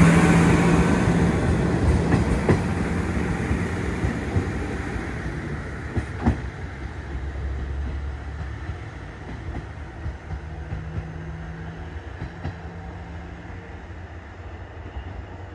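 Noto Railway train running on the line, its sound dying away steadily, with a few sharp wheel clacks over rail joints, the first about two seconds in and another about six seconds in.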